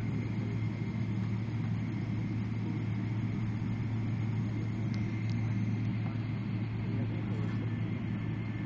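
Steady cabin rumble of a jet airliner taxiing after landing, with a low hum and a faint steady high whine.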